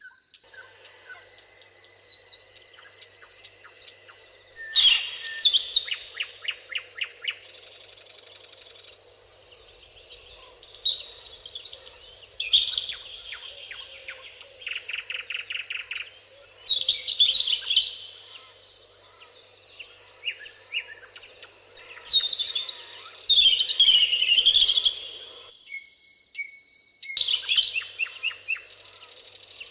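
Songbirds singing in a meadow: loud, varied phrases with rapid trills and chirps come every few seconds over a steady high thin tone.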